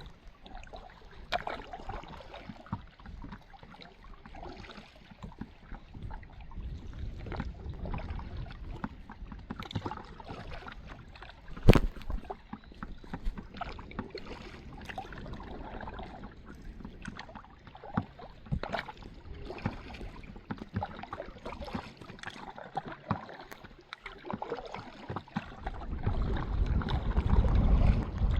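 Kayak paddles dipping and splashing in the lake water in irregular strokes, with one sharp knock about twelve seconds in. A low rumble builds near the end.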